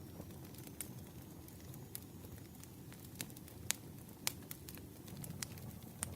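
Campfire crackling: a steady low hiss and rustle of burning wood with scattered sharp pops, a few louder ones near the middle.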